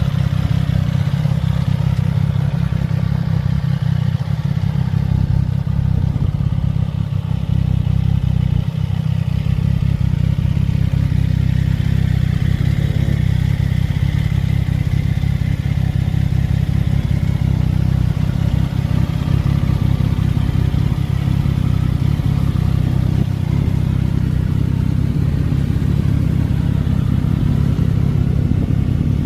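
CFMOTO 675SS motorcycle's 675 cc inline-three engine idling steadily.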